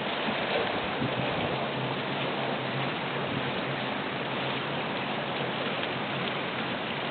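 Heavy rain falling steadily during a severe thunderstorm.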